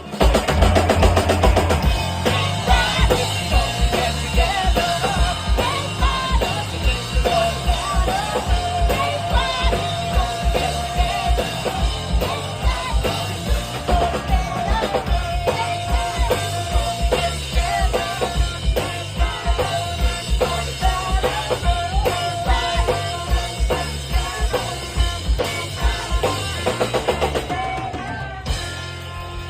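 Live punk-pop rock band playing: drum kit, electric guitars and bass with singing, loud and dense, dropping briefly near the end.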